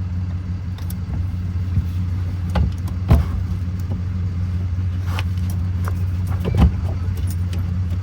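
Metal tool clinking and clicking against fuel-line fittings as the lines are worked loose, with a few sharp taps, the loudest about three seconds and six and a half seconds in, over a steady low hum.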